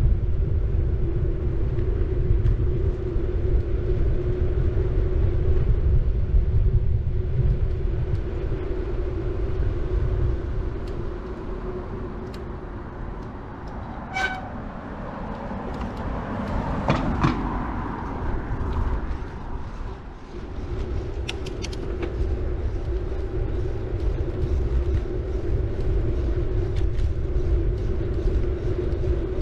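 City bike rolling along the road: a steady low rumble of tyres and wind with a constant hum, easing off in the middle as the bike slows, then picking up again. About halfway through there is a brief squeak from the disc brakes, and a few clicks follow.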